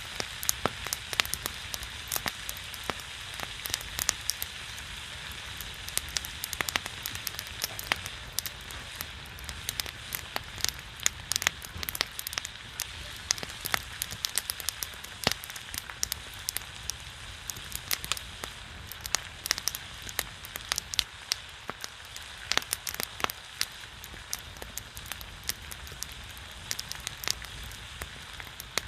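Pork belly sizzling on a griddle over a pine-wood fire: a steady hiss of spattering fat like rain, with frequent sharp pops and crackles.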